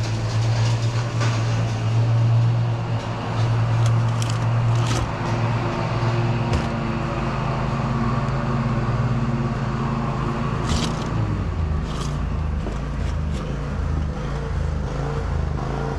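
Motor vehicle engine running with a steady low hum and a few light clicks; about eleven seconds in the hum shifts to an uneven pulsing.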